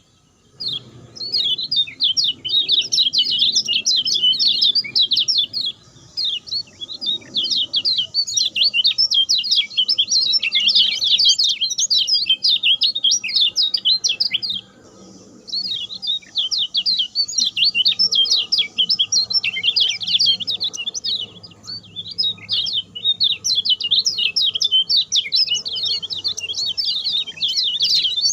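Kecial kuning, a small white-eye songbird, singing its fast, short-phrased 'speed' song: a dense run of rapid high chirps, broken by one short pause about halfway through. This is a persistent 'gacor' song used as a prompting call to set other kecial kuning singing.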